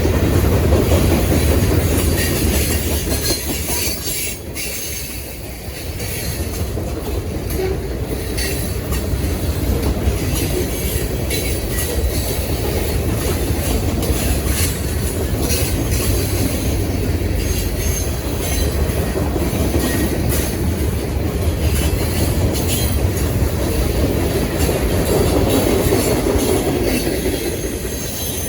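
Freight cars of a long mixed manifest train rolling past slowly upgrade, steel wheels clicking over the rails and flanges squealing, over a steady low rumble.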